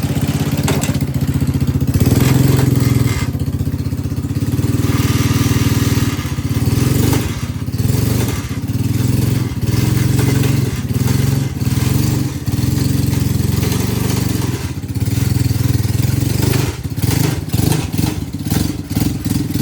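A lawnmower's small gasoline engine running, its level wavering a little, with loose parts and a slack drive chain rattling. The owner reads the uneven running as a carburettor that needs cleaning.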